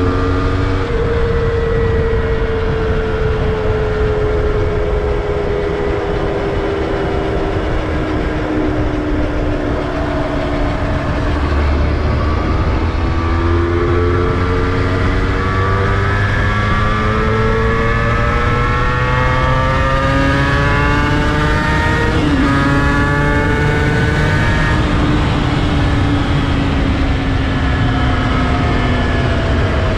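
Honda NSR250R's two-stroke V-twin engine running under way, its pitch slowly falling, then climbing steadily as the bike accelerates, with a sudden dip about two-thirds through and a gradual fall after. Steady wind and road rumble sits under the engine.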